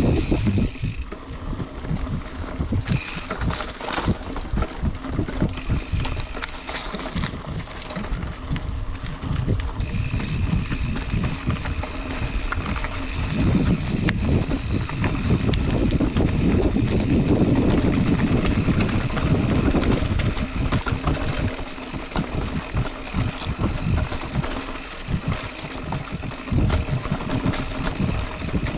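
Specialized Chisel mountain bike riding along a rough dirt trail, with a steady run of rattles and knocks from the bumps; the rushing noise grows louder for several seconds in the middle.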